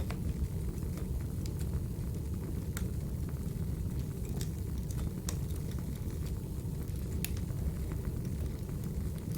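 Burning firewood crackling: a steady low rumble of the fire with scattered sharp pops and snaps.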